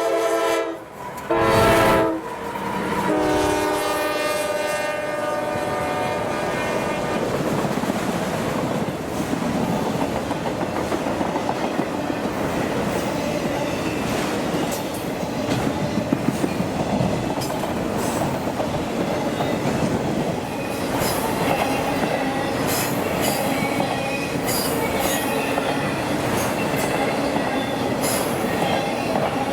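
CSX freight locomotive's multi-chime horn sounding in blasts, a short loud one about a second and a half in and a longer one that fades out by about seven seconds. The freight train then rolls past with a steady rumble, wheels clicking over rail joints and occasional high wheel squeals near the end.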